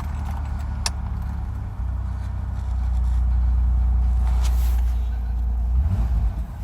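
Ford Taurus engine running just after a cold start in freezing weather, a steady low rumble that swells for a few seconds in the middle and then settles back.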